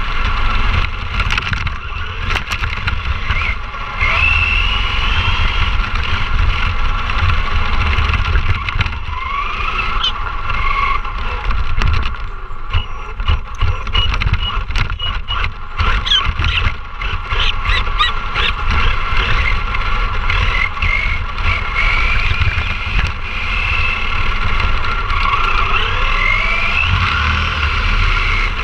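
ECX Ruckus 4x4 RC monster truck driving, its electric motor whining and rising and falling in pitch with the throttle over a steady low rumble. A run of rattling clicks and knocks comes about halfway through.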